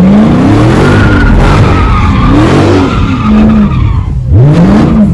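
V8 muscle car doing donuts: the engine revs up and falls back in repeated surges while the rear tyres squeal and skid, with a high wavering squeal a second or so in.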